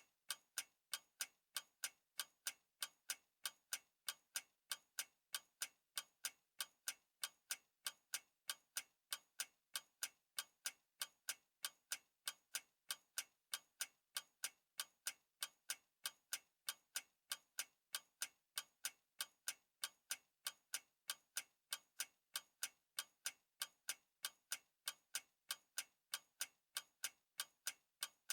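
Clock ticking at a quick, even pace, a few sharp ticks each second.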